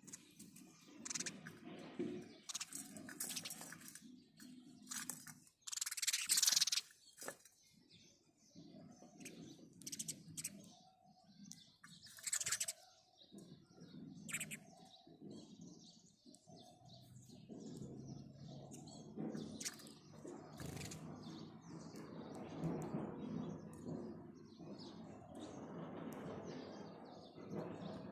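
House sparrows chirping: a run of short, repeated chirps, a few much louder than the rest, over a low steady background rumble that grows fuller in the second half.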